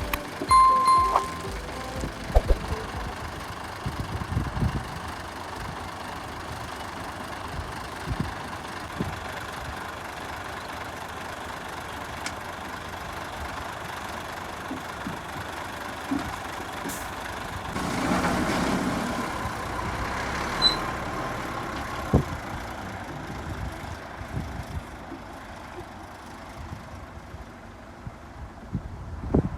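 Diesel engines of heavy construction machinery (an excavator and dump trucks) running steadily. A short beep sounds near the start, and the engine noise rises for a couple of seconds about 18 seconds in.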